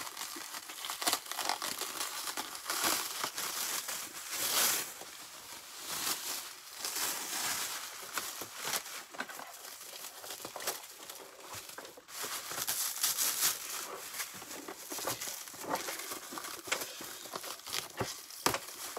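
Plastic and paper packaging crinkling and rustling as it is pulled off a new upright vacuum cleaner, in irregular bursts with brief tearing.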